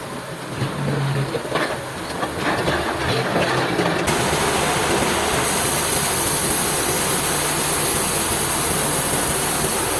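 Heavy machinery running steadily. About four seconds in the sound switches abruptly to a steadier, even noise with a bright high hiss.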